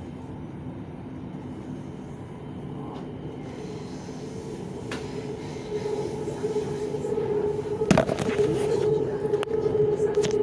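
BTS Skytrain carriage running along its elevated track, heard from inside the car: a steady rumble, joined in the second half by a humming tone that grows louder. There are a few sharp knocks about eight seconds in.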